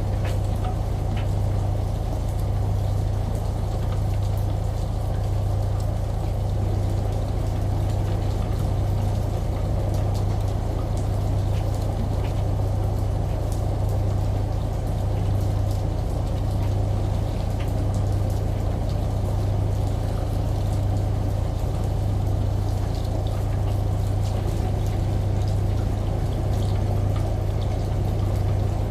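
Washing machine running with a steady low hum, layered with the even rush of falling water from rain and a shower, with faint scattered drips.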